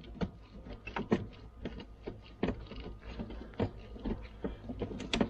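Irregular sharp clicks and knocks of hand tools on metal fasteners, about one or two a second, over a low steady hum.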